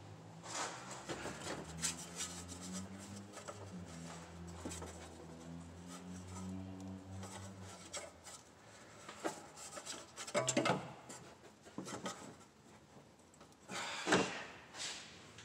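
Rubbing, scraping and clicking of hands and tools reaching up through a Hummer H2's wheel well to get at a rear spark plug and its wire, with a couple of louder knocks in the second half. A low steady hum runs under the first half.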